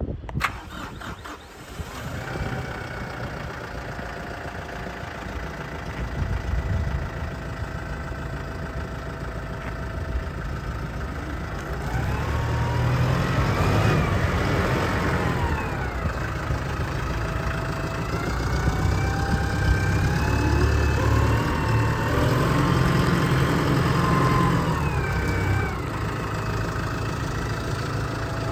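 Kubota M6-101 tractor's four-cylinder turbodiesel starting, settling to idle, then revved up and back down twice, about halfway through and again later, before returning to idle near the end.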